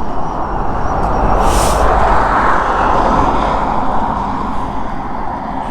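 Steady road and wind noise of a vehicle in motion, swelling slightly in the middle and easing toward the end.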